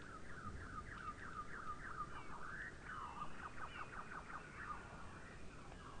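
A songbird singing: a series of quick repeated falling notes, then a faster run of short notes.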